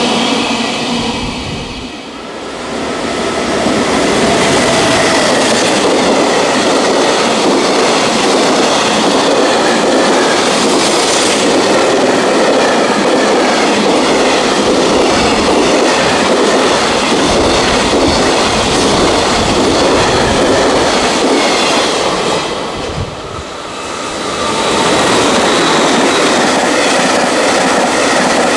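Freight train passing close by, with the steady rumble and clickety-clack of its wagons' wheels on the rails. The sound dips briefly twice, about two seconds in and again after about twenty-three seconds.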